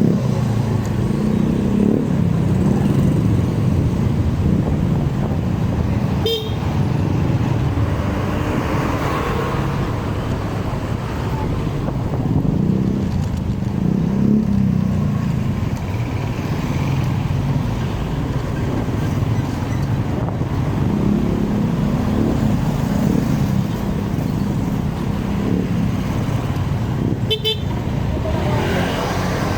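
Motorcycle riding in city traffic: steady engine and wind rumble, with two short horn toots, one about six seconds in and one near the end.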